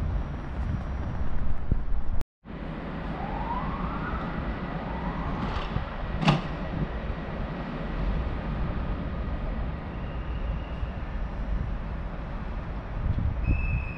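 Railway station platform sounds of trains: a steady low rumble with a short break about two seconds in. Two rising whines follow, then one sharp knock about six seconds in. A steady high beep starts near the end.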